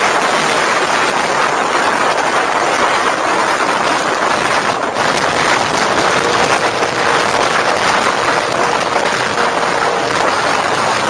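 Steady rush of wind and road noise from a vehicle moving at speed, with no clear engine note standing out.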